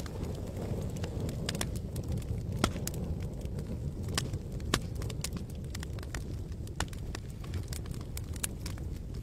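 Campfire crackling, with irregular sharp pops and snaps from the burning wood over a steady low rumble.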